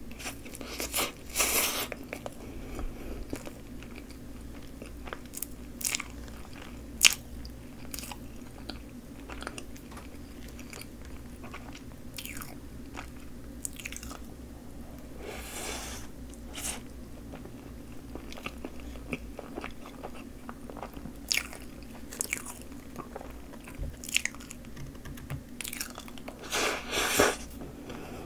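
Close-miked eating of a Choco Pie dipped in whipped cream: soft chewing and mouth clicks. There are louder bursts about a second and a half in, in the middle and near the end.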